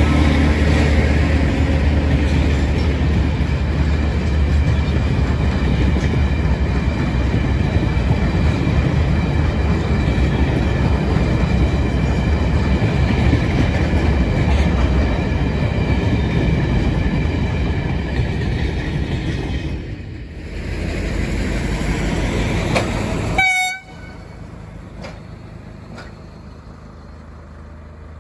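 Loaded ballast wagons of a track-maintenance train rolling past close by: a steady rumble and rattle of wheels on rail that dips about 20 s in, then a brief high ringing tone just before the sound cuts off sharply. For the last few seconds, a Dv12 diesel locomotive runs quietly at low revs.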